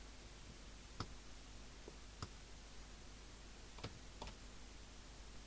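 A few small, sharp clicks of bench test-equipment controls being worked, five in all and irregularly spaced, over a faint steady hiss.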